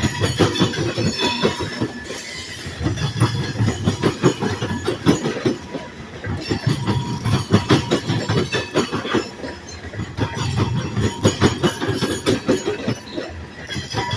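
Freight cars of a long train rolling past, their wheels clacking over the rail joints in a dense, irregular run of clicks over a steady rumble.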